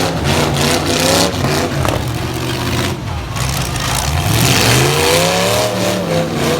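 Demolition-derby light trucks' engines revving hard, the pitch rising and falling, with a few sharp knocks in the first half.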